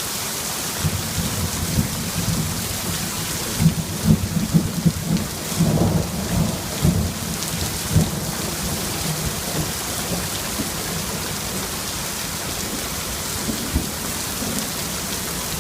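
Thunder rumbling and rolling after a lightning flash, loudest about four to seven seconds in and then dying away, over the steady hiss of heavy rain.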